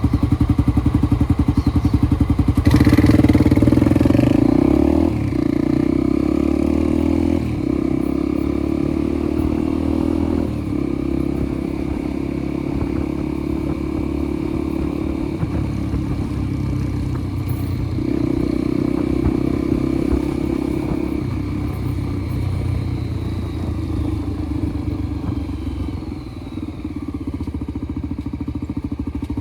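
Motorcycle engine running on the move, revving up about three seconds in, then dropping and picking up again several times as the ride goes on.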